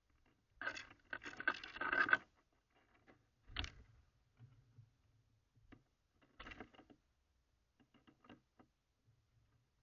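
Birds moving about on a seed feeder close to its built-in camera's microphone: a burst of scratching and rattling of seeds about a second in, then a few separate knocks and small clicks from pecking and landing.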